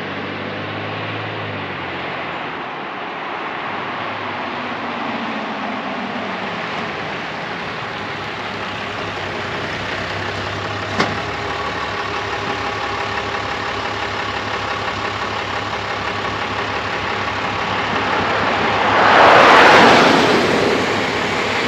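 Dually pickup truck driving on the highway, heard from inside the cab: steady engine and road noise. A single sharp click comes about eleven seconds in, and a rush of noise swells and fades near the end.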